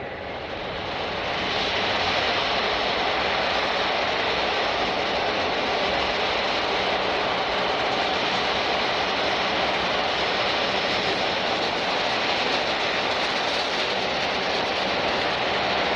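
Jet airliner engines running loud, building over the first couple of seconds and then holding a steady roar.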